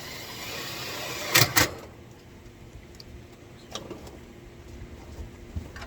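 A power drill driving a screw into the sheet-metal cabinet panel of an air-conditioning condenser: a short building whir, then two sharp, loud bursts close together about a second and a half in, followed by a few faint clicks.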